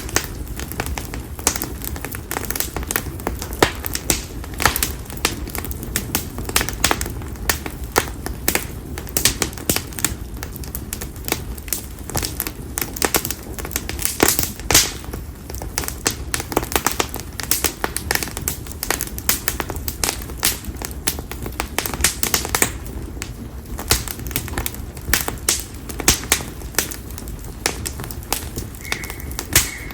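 Split konara oak firewood burning in an open bonfire, crackling with frequent sharp snaps and pops over a low steady rush of flame. A steady high whistle starts near the end.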